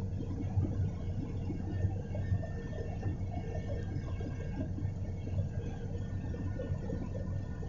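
Steady drone of a helicopter's engine and rotor heard from inside the cabin: an unbroken low hum with a hiss above it.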